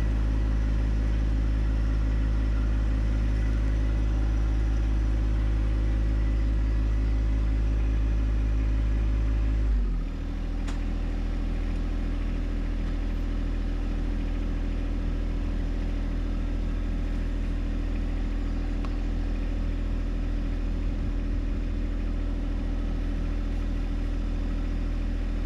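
John Deere 1025R compact tractor's three-cylinder diesel engine running steadily, throttled down about ten seconds in, then running on at lower speed.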